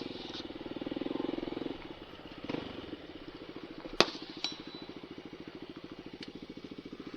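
Dirt bike engine idling with a steady pulse, slightly louder for a moment about a second in. Gunshots from nearby target shooting crack over it: one sharp shot about four seconds in is the loudest, with fainter shots about two and a half, four and a half and six seconds in.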